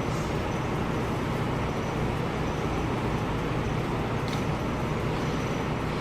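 Steady low rumble of a running motor vehicle engine mixed with street traffic noise.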